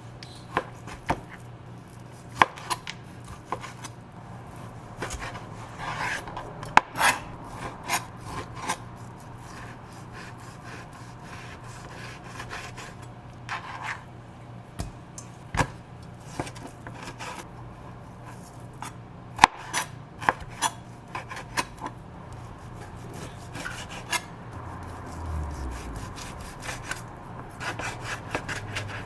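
Furniture being assembled by hand: scattered knocks and clicks of wooden parts and hardware, with scraping and rubbing between them. A steady low hum runs underneath.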